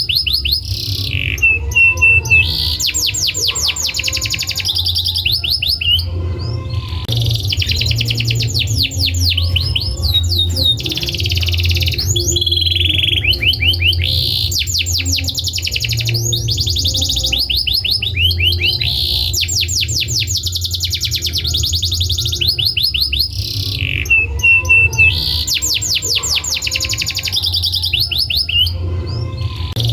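Domestic canary singing: long, fast trills of rapidly repeated high notes, phrase after phrase with short breaks, over a steady low hum.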